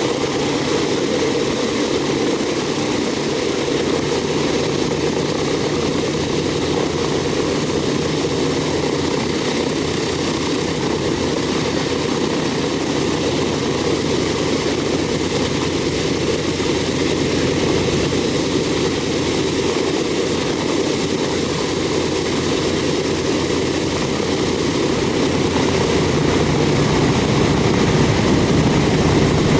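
B-17 bomber's Wright R-1820 Cyclone radial piston engines running steadily with propellers turning, growing a little louder near the end.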